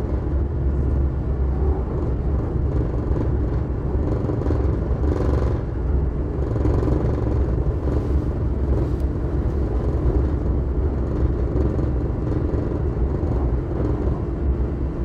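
Passenger train running at speed, heard from inside the carriage: a steady low rumble of wheels on the track with a faint whir.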